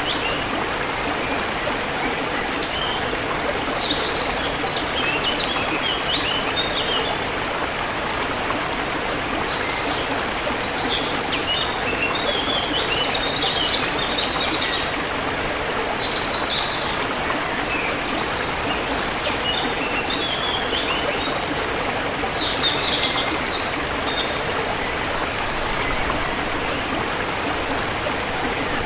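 Forest river flowing steadily, a continuous rush of water, with small birds chirping in short high clusters on and off throughout.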